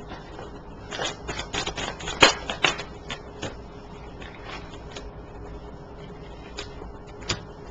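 Tarot cards being shuffled and handled: a run of quick card snaps and clicks over the first three seconds or so, then a few scattered ones.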